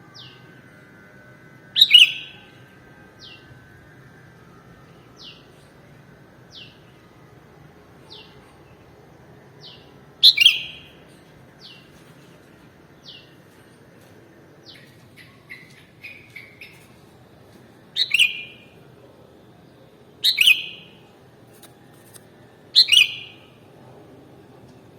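Sooty-headed bulbul calling. Short, high, falling notes repeat about every second and a half, and five louder calls stand out, two of them close together near the end, over a faint low hum.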